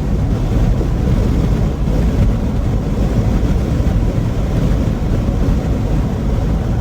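Steady rumbling road and wind noise of a moving car, with no clear engine tone.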